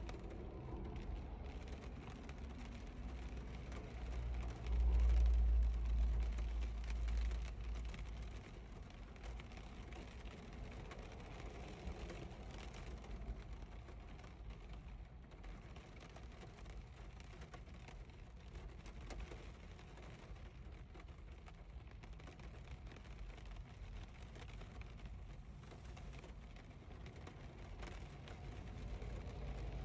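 Rain falling steadily on a car window. A deep low rumble swells about five seconds in and fades over the next few seconds.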